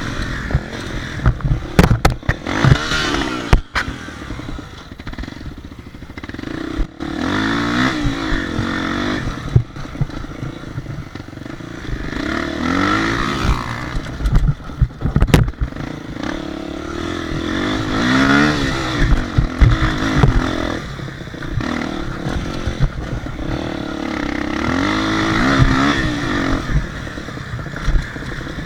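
Motocross bike engines revving, their pitch repeatedly rising and falling, with several sharp knocks and clatter in between.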